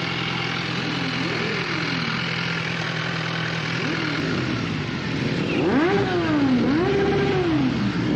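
BMW S1000RR's inline-four engine being revved in several quick blips over a steady running note, each rev rising and falling in pitch, with bigger, louder revs in the last few seconds.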